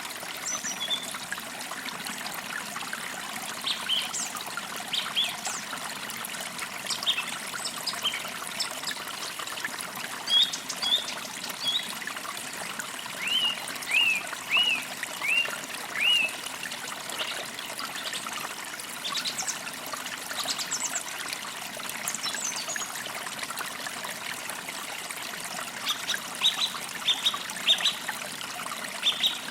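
A creek trickling and burbling steadily, with small birds chirping and calling over it: short high notes scattered throughout, a run of down-slurred calls about halfway through, and quick chirps near the end.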